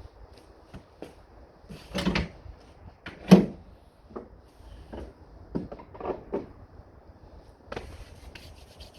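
A series of irregular knocks and clunks from things being handled, the loudest about two and three seconds in, with a few light clicks near the end.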